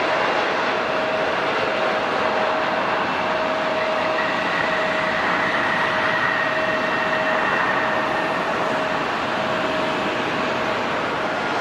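Jet airliner engines running: a steady loud rush with a few faint whining tones that shift slightly over the seconds.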